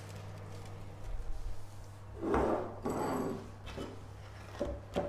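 Kitchen handling sounds: two short scraping, rubbing noises about two and three seconds in and a light knock near the end, over a steady low hum.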